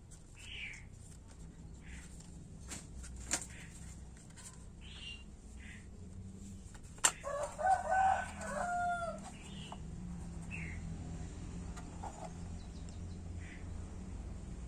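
A long pitched animal call about halfway through, lasting about two seconds and dropping in pitch at the end, just after a sharp click. Short faint chirps come and go, and another sharp click sounds earlier.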